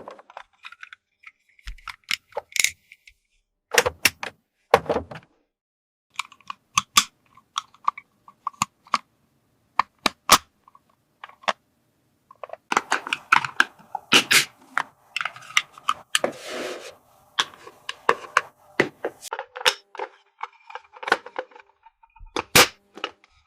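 Small hard plastic toy pieces clicking, tapping and knocking as they are handled: scattered sharp clicks at first, then a denser run of clatter in the middle.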